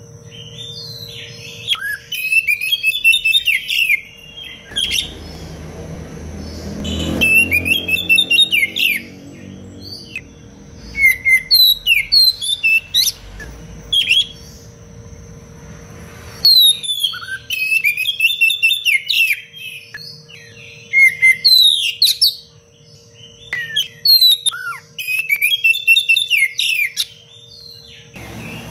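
Oriental magpie-robin (kacer) singing loud, rapid, varied phrases in bursts of a second or two, separated by short pauses. A steady faint hum runs beneath, and a low rumbling noise comes in about five to eight seconds in.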